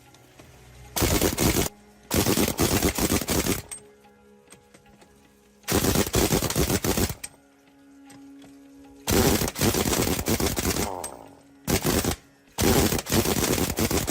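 A power tool run in six short bursts with a rapid rattle, stopping and starting between bursts.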